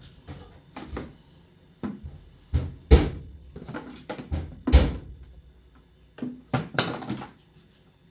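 A string of irregular knocks and thuds, with two hard thumps about three and five seconds in.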